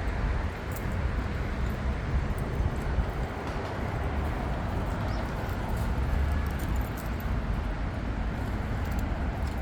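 Steady outdoor rumble and hiss, with a few faint clicks.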